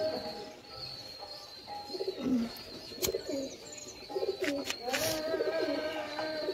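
Domestic pigeons cooing repeatedly, with a few sharp clicks in the second half.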